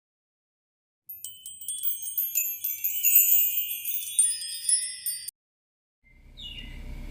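Shimmering, high-pitched chime and tinkle sound effect, many bell-like notes ringing together for about four seconds before cutting off suddenly. A low steady rumble fades in near the end.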